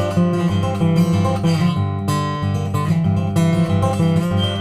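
Guitar strumming steady rhythmic chords in an instrumental gap between sung lines of a song.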